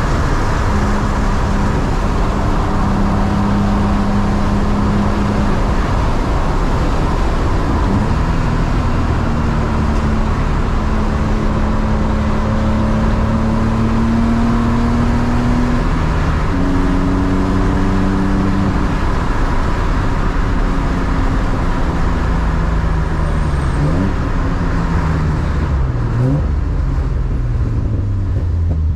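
Inside the cabin of a BMW E36 328is, its straight-six engine cruising with heavy tyre and road noise. The engine note holds steady, then falls away over the last several seconds as the car slows, with two short rising blips near the end.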